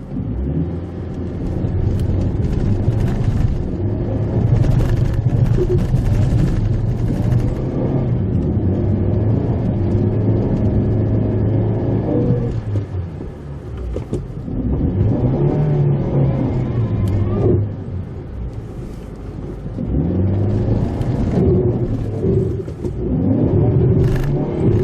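Mitsubishi Pajero Mini's small engine heard from the cabin while driving a forest road. The engine note climbs and drops several times as the throttle and gears change, over steady road rumble with scattered knocks from the rough surface.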